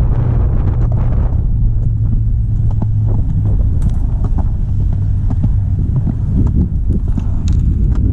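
Skateboard wheels rolling over pavement: a steady low rumble with scattered clicks.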